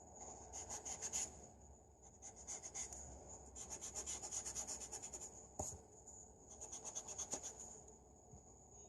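Quick, rapid strokes of a drawing tool rubbing on paper, as in shading, coming in several bursts. A single sharp tap comes about halfway through.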